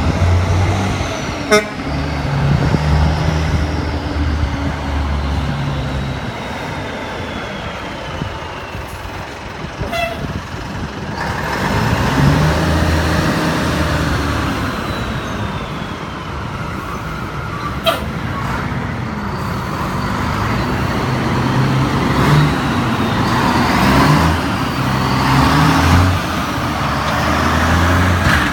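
Mack CH dump truck's diesel engine running, its note rising and falling in steps several times, with a few short sharp clicks along the way.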